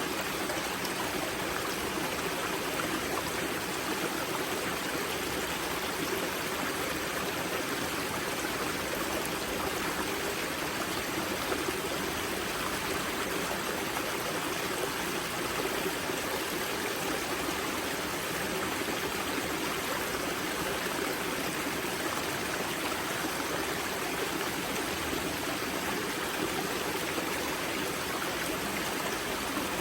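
Steady rush and babble of water from the Grza river's spring, flowing and splashing over rocks at its source.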